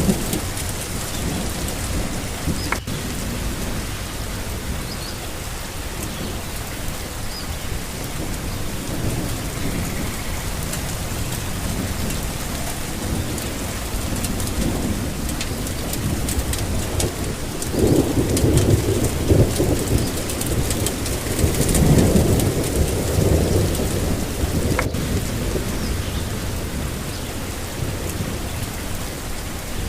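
Steady rain falling, with thunder rumbling low in the background; two longer rolls of thunder swell up about two-thirds of the way through.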